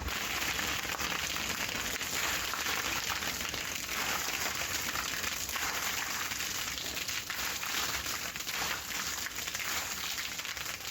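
A steady, dense rustling hiss full of small crackling ticks.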